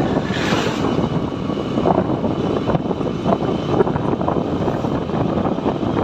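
Motorcycle riding along a road, its engine running under wind noise on the microphone, with a brief rush of noise about half a second in.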